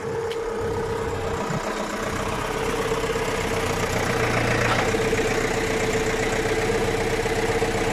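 A farm tractor's engine running steadily at idle, with a constant droning tone.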